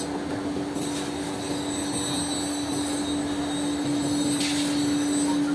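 A machine running steadily with a constant hum, with a short hiss about four and a half seconds in.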